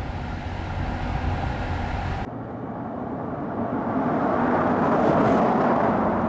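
Car engine and road noise: a steady low rumble that cuts off abruptly about two seconds in, followed by a noisier sound that swells to its loudest in the second half and eases slightly near the end, like a car driving past.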